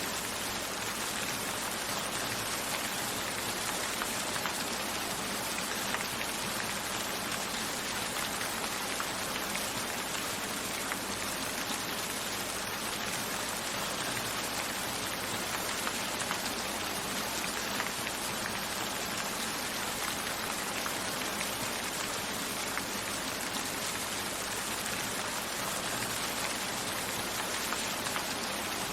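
Steady rain falling: a dense, even hiss with scattered individual drop ticks, with no thunder or change in strength.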